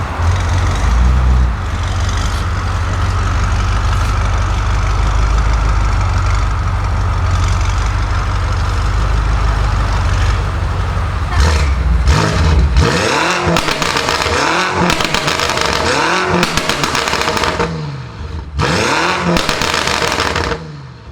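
BMW M5 F90's twin-turbo V8 through an aftermarket exhaust: a steady low rumble for about twelve seconds, then repeated revs, the pitch rising and falling about once a second. It drops away abruptly just before the end.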